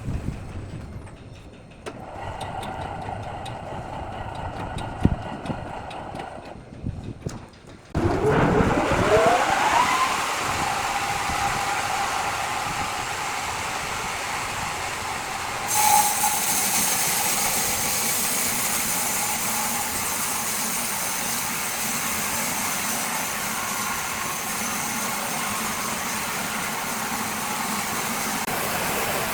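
A machine motor starts abruptly and its whine rises over a couple of seconds to a steady running pitch. About eight seconds later a loud steady hiss joins it and carries on. A lower, quieter steady hum runs before the motor starts.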